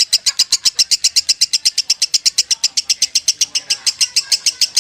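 A lovebird singing its 'konslet' song: a long, unbroken string of sharp, even chirps at about nine a second, with no pause.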